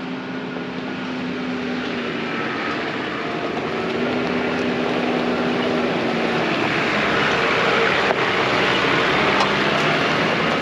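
4WD engine and tyre noise on a dirt track, growing steadily louder, with the engine's pitch shifting in steps.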